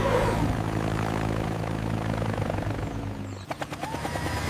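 Steady helicopter-like whirring drone of a flying machine. About three and a half seconds in it cuts abruptly to a different, steadier low hum with a faint held tone above it.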